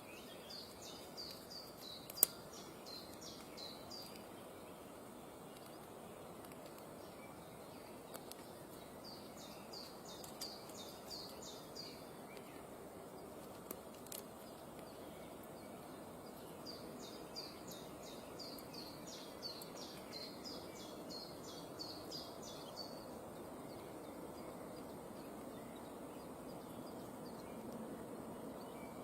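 A bird giving three runs of quick, high-pitched calls in rapid series, over a steady low background hiss, with one sharp click about two seconds in.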